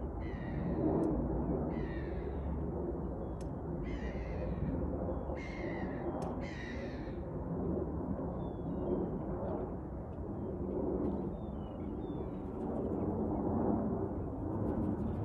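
A bird calls five times in the first seven seconds, each call about a second long, over a steady low rumble. A few faint short chirps follow later.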